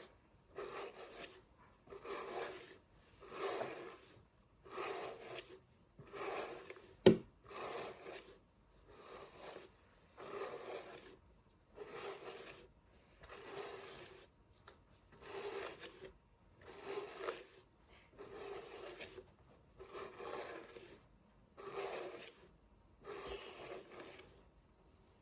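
Massage hairbrush drawn through hair in slow, regular strokes, about one every second and a half, each a soft brushing rustle. A single sharp click about a third of the way through.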